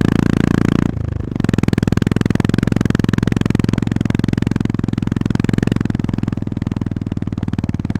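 Honda GB350S single-cylinder engine running under way, its exhaust beating in a fast steady pulse. The sound dips briefly about a second in, then picks up again.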